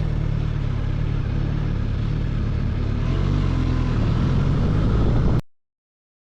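Suzuki GSX-S1000GT's inline-four engine running under way, getting a little louder over the last couple of seconds, then the sound cuts off abruptly to dead silence about five seconds in.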